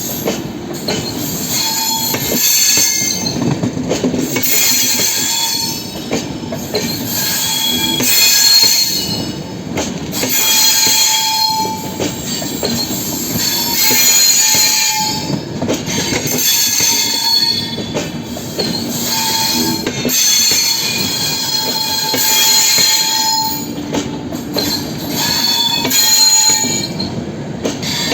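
LHB passenger coaches of a train rolling past on the rails, rising and falling about every two seconds as each coach goes by, with high-pitched wheel squeal coming and going.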